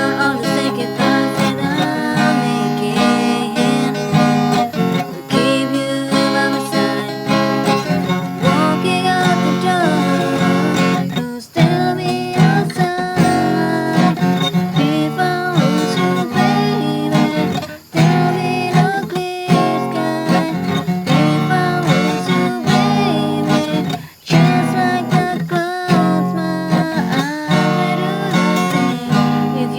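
Music: an acoustic guitar strummed in chords, with a voice singing over it.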